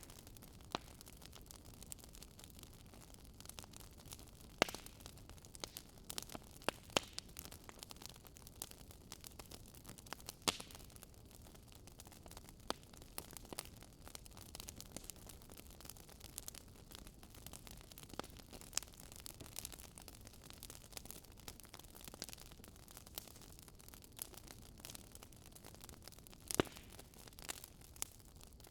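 Fireplace crackling: a steady soft hiss with irregular sharp pops and snaps, a few louder ones about five seconds in, about ten seconds in and near the end.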